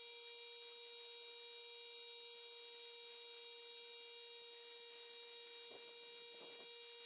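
Faint steady electrical hum: one unchanging tone with a ladder of higher overtones, beginning and ending abruptly.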